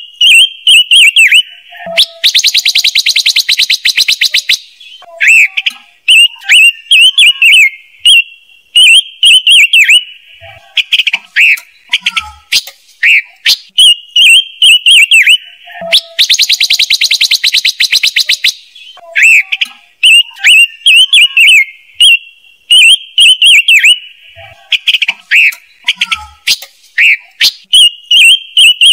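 Looped lure recording of the songbird sold as 'ngũ sắc' (five-colour bird): quick high chirping notes over and over, broken twice by a long rapid rattling trill of two to three seconds.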